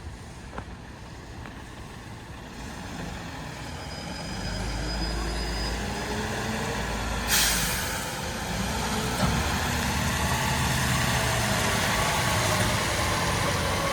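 Mercedes Econic refuse truck growing louder as it comes closer, with a short sharp air-brake hiss about halfway through, then its engine note rising and falling as it revs.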